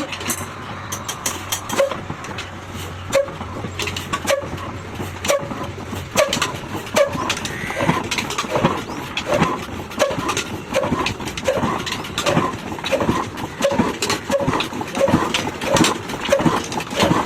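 Diesel engine starting up. It fires in slow, even knocks, about one a second at first, picking up to about two a second as it gathers speed.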